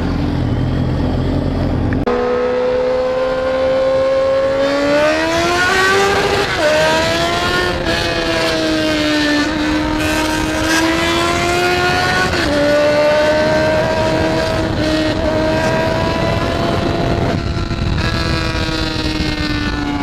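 Motorcycle engine pulling through the gears: the pitch climbs, drops sharply at an upshift about a third of the way in, and again at another shift around the middle, then holds steady, with wind rush over the noise of riding.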